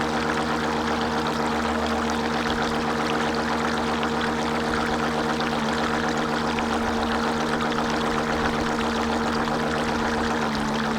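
Water rushing and splashing steadily against the hull of a radio-controlled model boat, with the steady whine of the boat's motor; the whine drops to a different pitch near the end.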